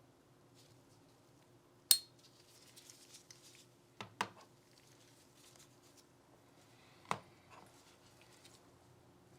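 Glock pistol parts and small tools being handled on a work surface: a sharp, briefly ringing metallic clink about two seconds in, a quick double click around four seconds, another click near seven seconds, and light rattling and handling noise between them.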